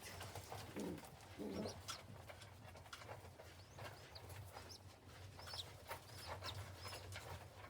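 Pigeons in a nest cooing, two low pulsing coos in the first two seconds, followed by a few thin high cheeps and faint scratchy clicks from the birds moving about.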